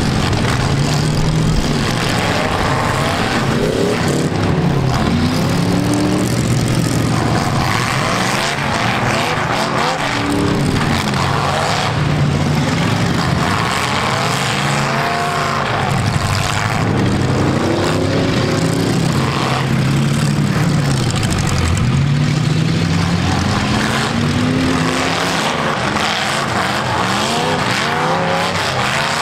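Several V8 engines in full-size demolition derby cars revving hard, overlapping, their pitch rising and falling again and again as the cars push against each other and spin their wheels in the dirt.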